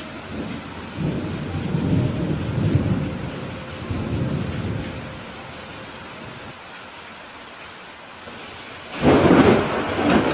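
Thunderstorm: steady rain hiss, with thunder rumbling low and rolling for a few seconds in the first half. A sudden, sharp thunderclap near the end is the loudest sound.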